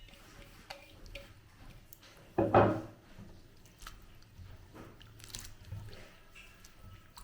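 Someone chewing food, with small crunchy clicks, and one short, much louder sound about two and a half seconds in.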